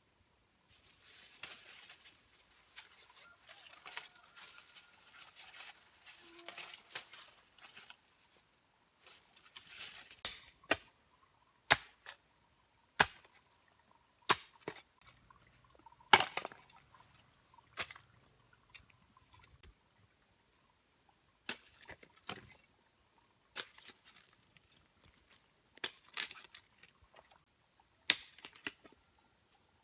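Rustling and scraping for several seconds, then irregular sharp knocks of a tool striking wood, one every second or two, the loudest about halfway through.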